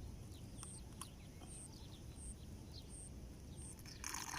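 Quiet outdoor ambience: a thin, high chirp repeating about every two-thirds of a second, with fainter short chirps between. A brief hiss comes near the end.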